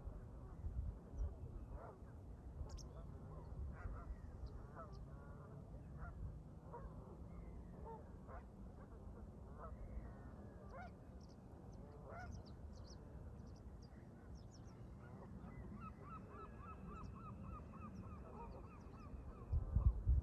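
Canada geese honking, many short calls one after another, with a fast even run of calls in the last few seconds. Low wind rumble on the microphone swells near the end.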